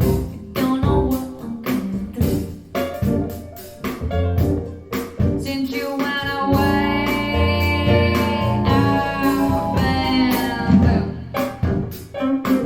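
Music played through a pair of KEF LS50 speakers: plucked guitar notes with a long held melodic note through the middle.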